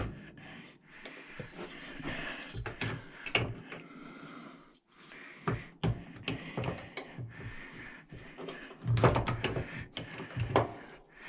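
Scrap metal parts being handled and worked by hand: scattered clicks and knocks with stretches of scraping, a busier cluster of knocks near the end.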